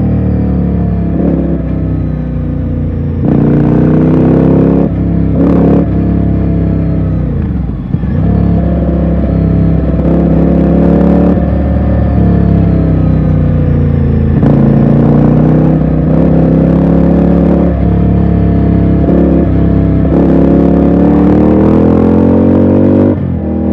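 Ducati Scrambler's L-twin engine under way, its note rising and falling as the rider rolls on and off the throttle and changes gear several times.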